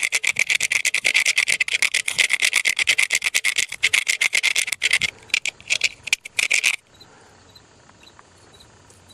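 Rapid back-and-forth scrubbing strokes on the cast-iron Chevy 350 engine block, cleaning off grime so the casting date code can be read; the scrubbing stops about seven seconds in.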